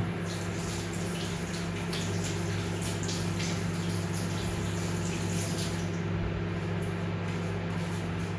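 Steady electrical hum from a mains-powered appliance, with light irregular clinks and splashy rustles over roughly the first six seconds.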